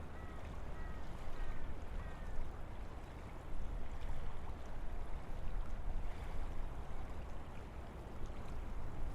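Wind blowing through forest trees, a steady rushing with a deep rumble that swells and eases in gusts.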